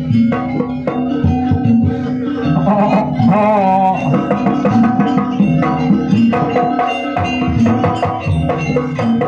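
Gamelan-style dance accompaniment: hand drums and struck metallophones playing a steady rhythm, with a wavering melodic line over it.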